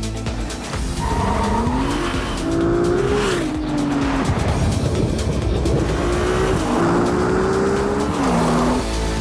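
Sports car engine revving, its note climbing twice and dropping back between the climbs, over background music.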